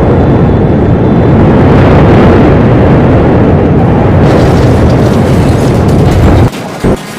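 Very loud, continuous rumbling noise, heaviest in the low end, that cuts off suddenly about six and a half seconds in, with one short burst just after.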